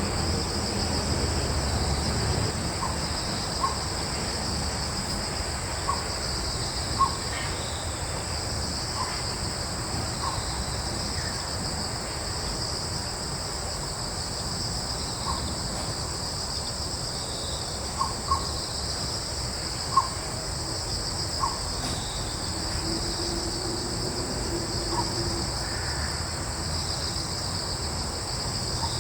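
Steady chorus of crickets and other insects, a continuous high-pitched trilling, with about a dozen short bird calls scattered throughout and a low rumble of breeze underneath.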